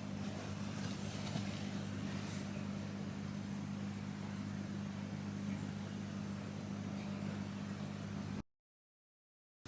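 Steady low mechanical hum with a few faint clicks, cut off abruptly to dead silence near the end.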